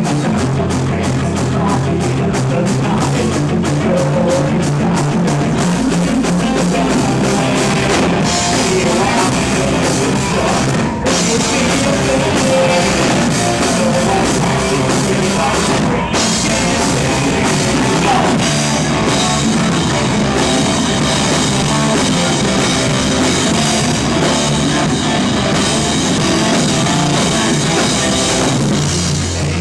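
Live rock band playing: loud distorted guitars and a drum kit driving the song, with some singing, recorded in the room. The sound drops out for a moment about 11 and 16 seconds in, like short breaks in the song.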